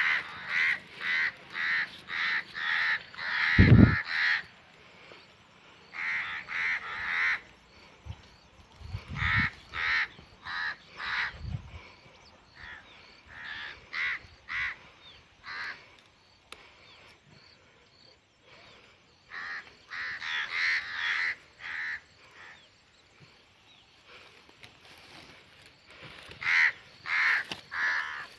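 A bird's short calls, repeated several times a second in runs with pauses between. There is a loud thump of handling about four seconds in.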